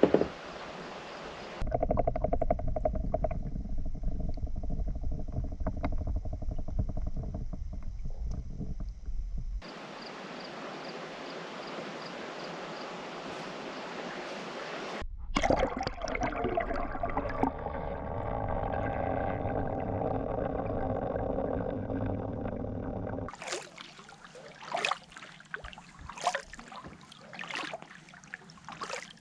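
Kayak paddling on a lake: paddle strokes sloshing and gurgling in the water, with wind rumbling on the microphone in some stretches. Near the end come several separate splashes and drips as the paddle blades dip and lift.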